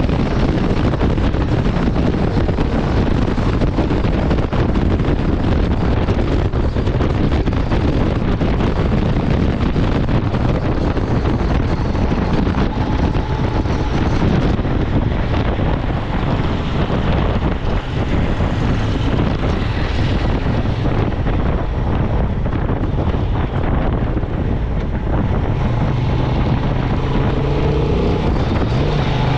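Honda Transalp 750's parallel-twin engine running at speed on the highway, its exhaust note mixed with heavy wind buffeting on the microphone. The sound stays steady throughout.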